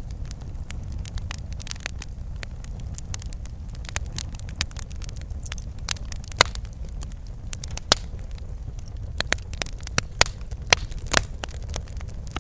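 Wood fire burning in a fireplace: a steady low rumble of the flames under irregular crackles and sharp pops, the loudest pops scattered through the second half.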